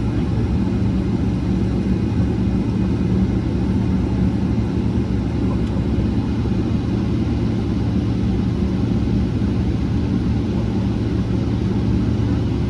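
Steady low cabin rumble of a Boeing 777-300ER heard from a passenger seat: its GE90 engines and airflow make an even roar with a steady low hum, unchanging throughout.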